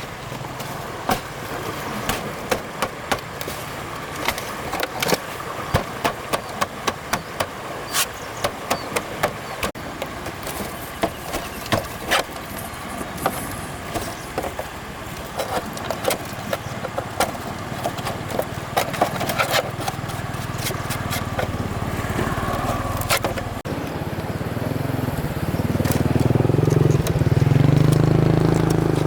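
Many sharp clicks and taps, irregular, through most of the time, then a low engine-like hum that grows louder over the last several seconds.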